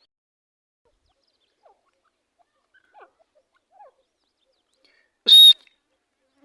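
Teetar partridges calling: a few faint short calls, then about five seconds in one loud, shrill call lasting a fraction of a second.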